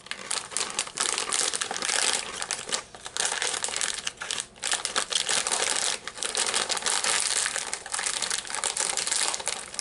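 Crunchy bagel-chip-style bruschetta crisps being chewed close to the microphone: a dense, irregular crackling crunch with a few short pauses.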